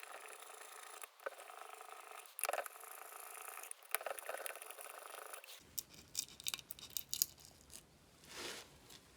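Faint, scattered clicks and clinks of small metal chainsaw parts and hand tools being handled during reassembly, with a cluster of quick clicks in the second half.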